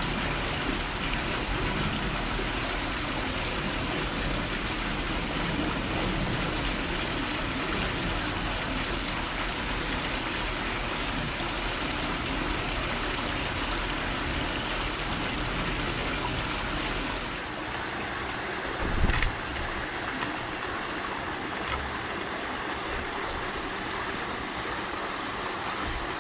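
Steady, even outdoor hiss with no clear bird calls; the low rumble drops away about two-thirds of the way through, and there is a single soft thump shortly after.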